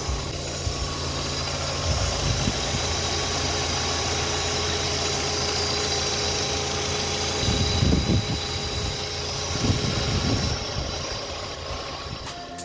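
Hyundai Accent engine running steadily, with a few dull knocks about two, eight and ten seconds in. The owner traces this metallic knock, heard when the car pulls away and brakes, to a worn front right engine mount.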